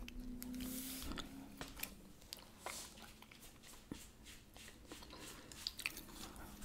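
Chewing gum close to the microphone: irregular wet smacks and clicks of the mouth.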